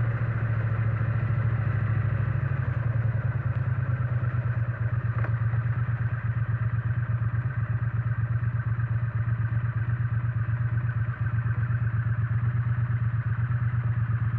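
Triumph Bonneville T100's parallel-twin engine idling steadily, with an even, rapid exhaust pulse and no change in revs.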